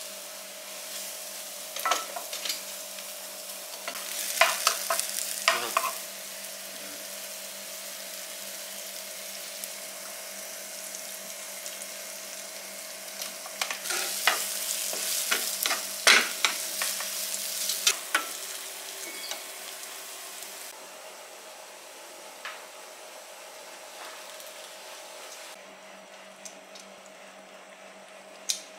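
Garlic and sliced mushrooms sizzling in a non-stick frying pan while a spatula stirs them, with clusters of scrapes and taps against the pan, the busiest about halfway through. The sizzle quietens in the last few seconds as pasta is tossed in.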